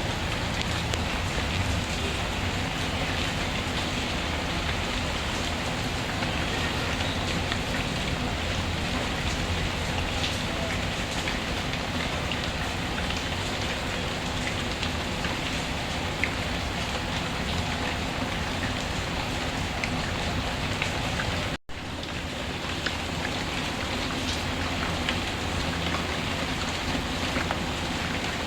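Steady rainfall with a few faint crackles from a wood fire. The sound cuts out for a split second about two-thirds of the way through.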